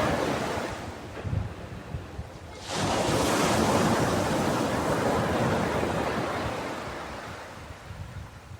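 Ocean waves on a beach: the wash of one wave fades away, then the next breaks suddenly about three seconds in and slowly washes out.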